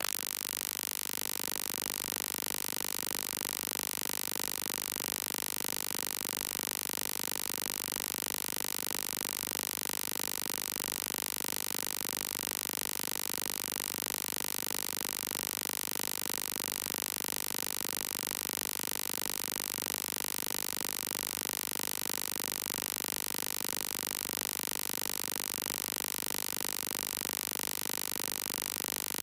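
Steady electronic noise: an even buzzing hiss with a fast regular flutter that never changes in level, typical of a digital audio fault rather than any sound of the scene.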